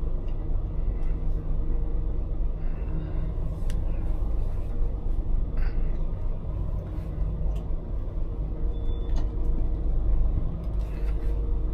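Scania lorry's diesel engine running with a deep, steady rumble, along with road noise while driving.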